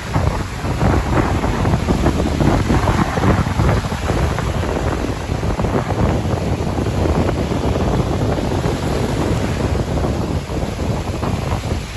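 Strong wind buffeting the microphone in gusts, over the steady wash of surf.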